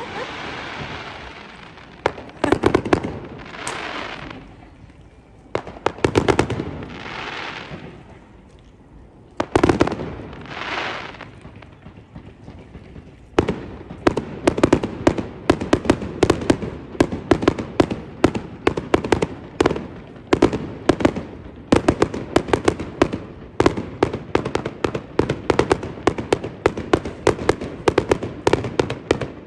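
Fireworks going off: a few single loud bangs, each trailing off in a hiss lasting a second or two. About halfway through, a rapid barrage of bangs starts, several a second, and keeps on to the end.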